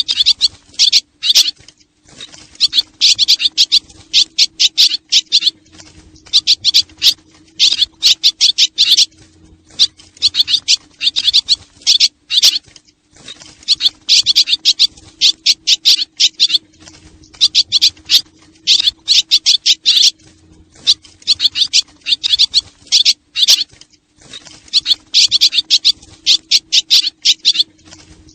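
Swallow lure call: rapid, high twittering chirps from swallows, coming in repeated bursts of about one to two seconds with short gaps between them, over a faint steady low hum.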